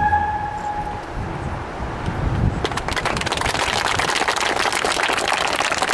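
A held music note fades out, then from about three seconds in a bonfire crackles and pops with a dense, continuous spray of sharp clicks.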